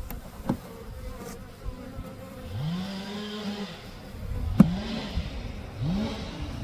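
Honey bees buzzing around an open hive, individual bees flying close past with a drone that rises and falls in pitch several times. A sharp knock sounds about four and a half seconds in.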